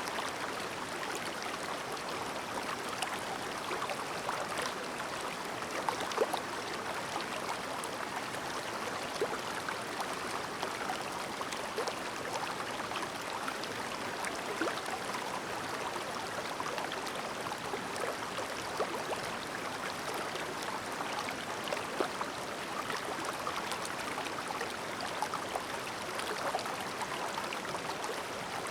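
Shallow clear stream babbling steadily over stones, with many small splashes and trickles.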